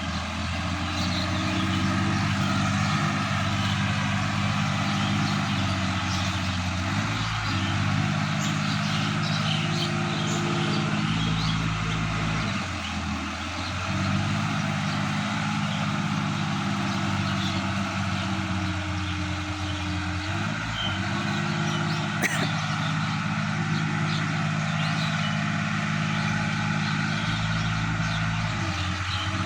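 Sonalika DI-50 RX tractor's diesel engine running, its speed shifting up and down in steps several times. A single sharp click sounds about 22 seconds in.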